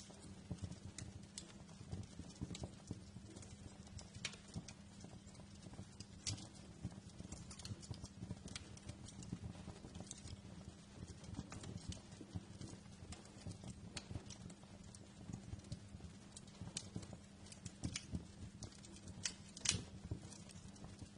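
Wood fire crackling in a fireplace: irregular pops and snaps over a steady low rumble of the flames, with a louder pop near the end.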